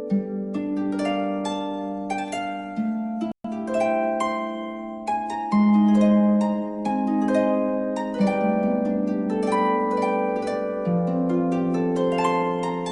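Background music of plucked harp: a flowing run of notes that ring and overlap. The sound drops out for a split second a little over three seconds in.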